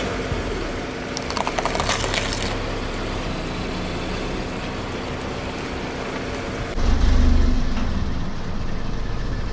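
Car engine running while the car's tyre rolls over an object, with a brief crackling crunch about a second and a half in. Later there is a louder low rumble of the car.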